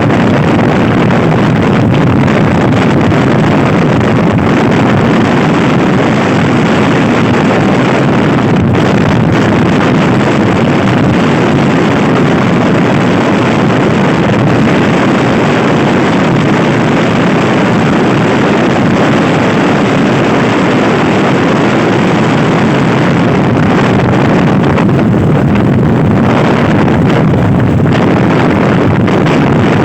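Loud wind buffeting the microphone of a Honda Scoopy i scooter ridden at speed, with the scooter's engine running steadily under it.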